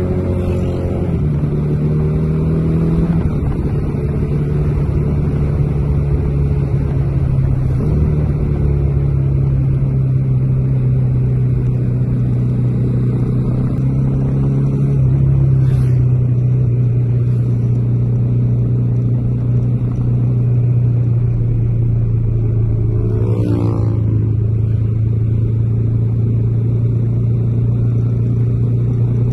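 Bajaj Dominar 400's single-cylinder engine running under way at cruising speed. The engine note steps to new pitches a few times in the first half as the revs change, then holds steady.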